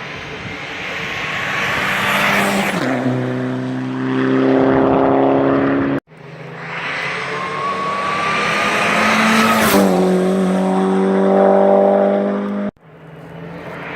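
Hillclimb race cars going past at speed one after another, each engine note building as it approaches and dropping in pitch as it passes. The sound cuts off abruptly twice, about six seconds in and near the end, as a new car starts.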